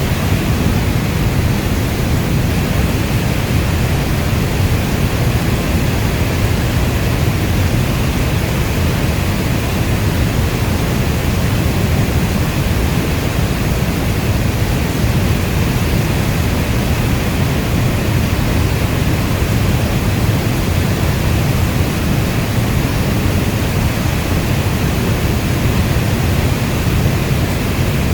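Steady heavy rainfall, an even, unbroken wash of rain noise weighted toward the deep end like brown noise, with no distinct drops or thunder.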